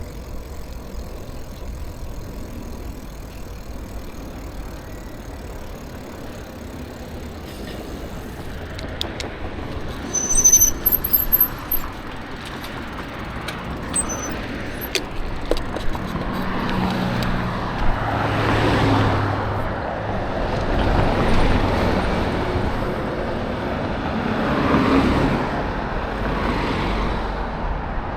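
Road traffic passing: from about halfway, several vehicles go by one after another, each a swell of engine and tyre noise. A few seconds before that, a brief high-pitched squeal.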